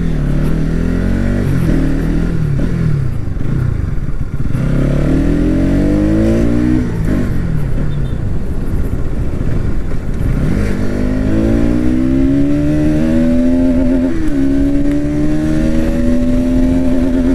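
Bajaj Pulsar NS200's single-cylinder engine accelerating hard, its pitch climbing and dropping back several times as it shifts up through the gears.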